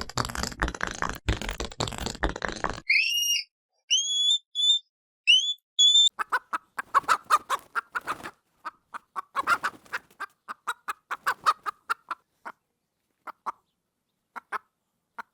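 Bird calls. A harsh rasping burst lasts about three seconds. Then come several short rising chirps, then a fast run of short clucking notes that slows and thins out over the last few seconds.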